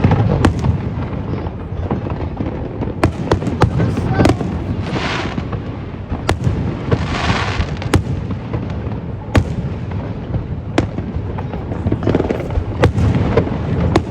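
A fireworks display: a run of sharp bangs and cracks from shells bursting, over a constant low rumble of booms. Twice, around five and seven seconds in, comes a hissing crackle lasting about a second.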